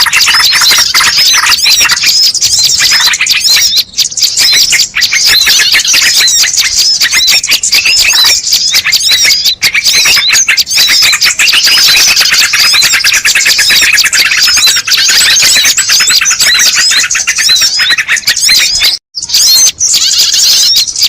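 Dense chatter of many birds chirping rapidly over one another, a bird-lure (pikat) recording played loud to call in wild birds. It cuts out for a moment about 19 seconds in, then carries on.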